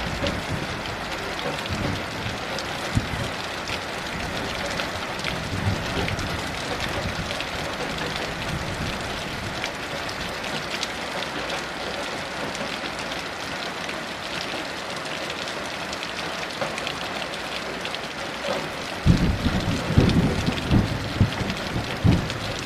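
Steady heavy rain falling, with a rolling rumble of thunder that sets in near the end.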